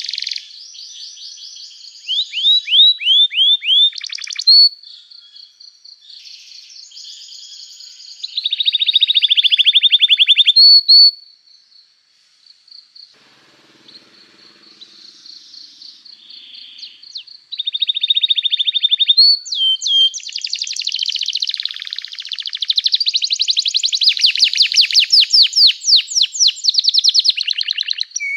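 Domestic canary singing in fast trills of rapidly repeated chirps, phrase after phrase, with a quieter pause about halfway through before the song picks up again.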